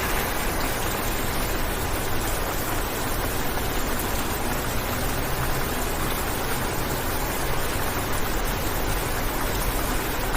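Rain falling on a car's windshield, heard from inside the cabin as a steady, even hiss with a low hum beneath it.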